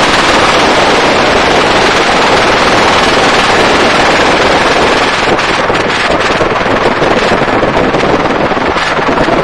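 Helicopter in flight: a loud, steady rush of rotor and engine noise, with wind buffeting the microphone.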